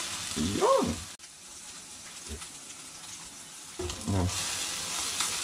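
Burger patties sizzling in hot oil in a nonstick frying pan. The sizzle drops suddenly about a second in and comes back louder a little before the end.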